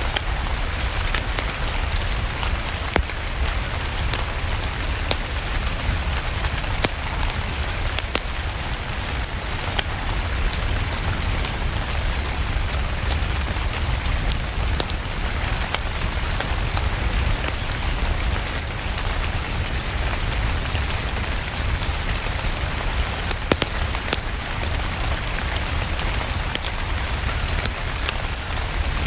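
Steady rain falling, with sharp small clicks scattered through it.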